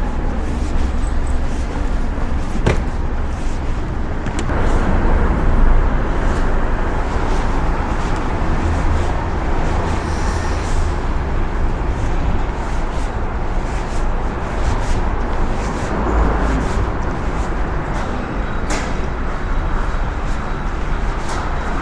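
Car on the move: steady rumble of road and engine noise, with an occasional faint click.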